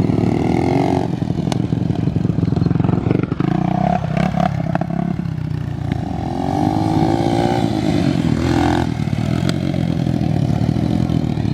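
Off-road vehicle engine running on the throttle, its revs climbing, dropping about four seconds in, climbing again and falling back near the end, with a few sharp knocks.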